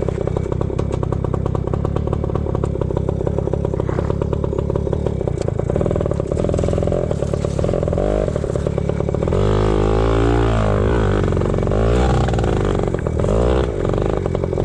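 Yamaha PW80 pit bike's small two-stroke single-cylinder engine running as the bike is ridden. It holds a steady pace for about nine seconds, then gets louder with the revs rising and falling several times.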